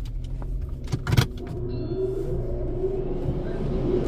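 Car engine idling in an automatic car wash bay, with a couple of sharp clicks about a second in. From about halfway, a rising whine and a growing rush of air come in as the wash's dryer blowers start up.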